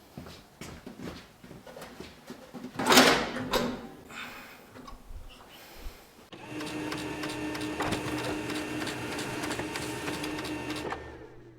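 Handling and rubbing noises with one loud scrape about three seconds in, then a small motor running steadily with an even whir for about four and a half seconds before it cuts off suddenly.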